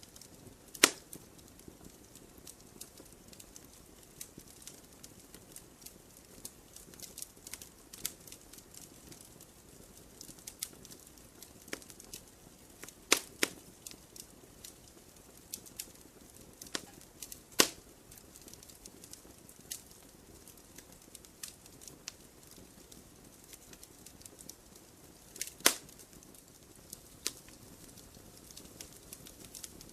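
Wood campfire burning: a low steady hiss with irregular crackles and pops, a few sharp louder pops standing out, about a second in, around halfway, and near the end.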